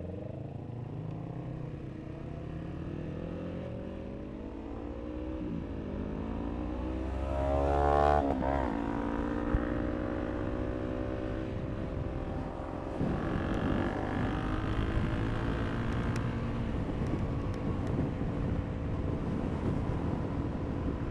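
KTM RC390 single-cylinder engine pulling away from a stop and accelerating through the gears: the pitch climbs, drops at a shift about six seconds in, climbs to its loudest at about eight seconds, and drops again at the next shift. After that the engine runs more steadily at speed.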